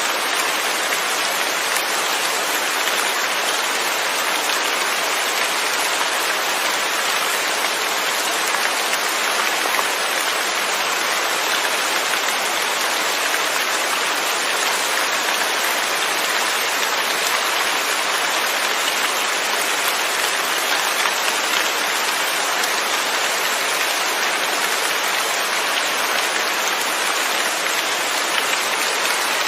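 Steady, even rainfall with no thunder, a dense hiss of drops pattering on surfaces.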